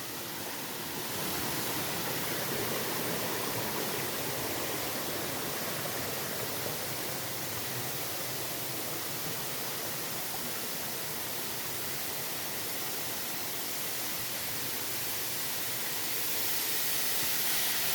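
Waterfall falling, a steady rushing hiss of water, with wind on the microphone.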